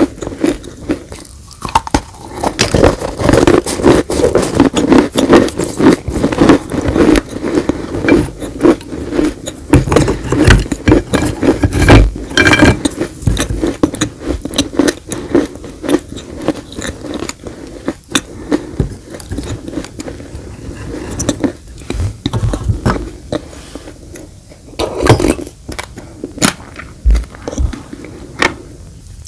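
Dry baked clay crunching and crumbling close to the microphone as it is bitten and chewed, a dense run of sharp crackles and gritty scrapes.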